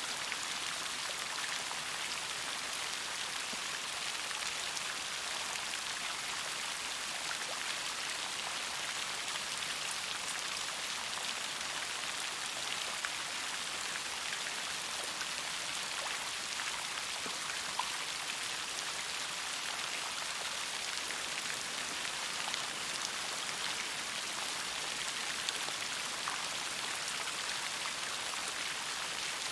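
Steady rain falling, an even hiss with many small drop ticks and an occasional louder drip.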